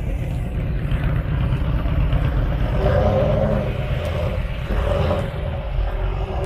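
A car engine running with a steady low rumble, swelling slightly a couple of times.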